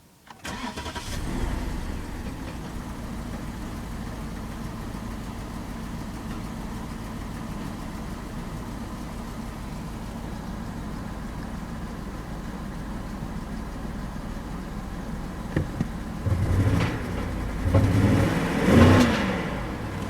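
BMW 745i engine starting, catching within about a second and settling into a steady idle with a misfire, then revved in three short blips near the end.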